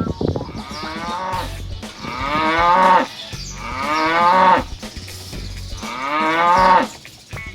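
Dairy cows mooing: three long moos, each rising and then falling in pitch.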